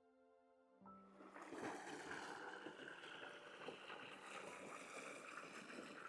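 A held music chord ends in the first second, then a small brook runs steadily over rocks: meltwater from an ice dam, splashing through a little waterfall.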